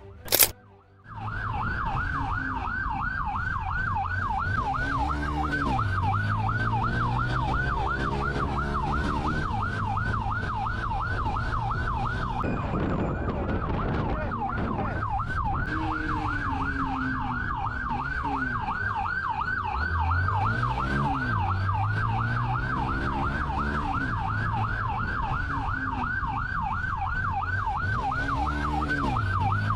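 Police car siren on a fast yelp, wailing up and down several times a second without a break, over the sound of a vehicle engine revving up and down in the pursuit.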